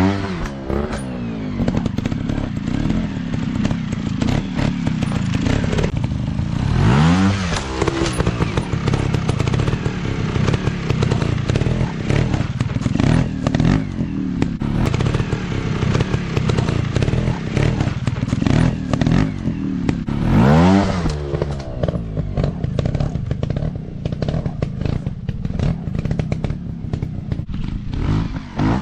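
Dirt bike engine running hard and revving up sharply three times, at the start, about seven seconds in and about twenty seconds in, over steady clattering and knocking.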